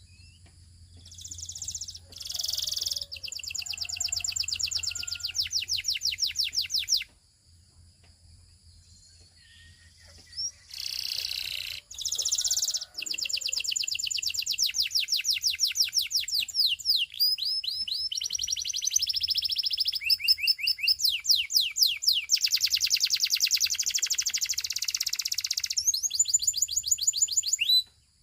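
Canary singing: phrases of very rapid, high-pitched repeated trills. A few seconds' pause comes about seven seconds in, then a long run of changing trill types to the end.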